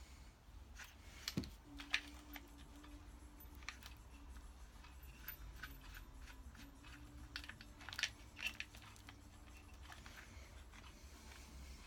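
Scattered faint clicks and taps of metal engine parts being handled and fitted on a Porsche 911 SC engine under rebuild, over a faint steady hum.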